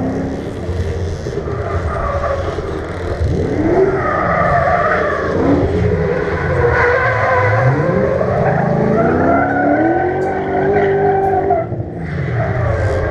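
Engines revving hard and accelerating, their pitch climbing in several rising sweeps and then holding high, as vehicles pull away at speed.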